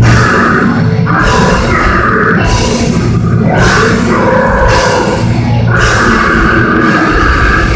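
Heavy metal band playing live, loud and dense, with distorted guitar and a drum kit.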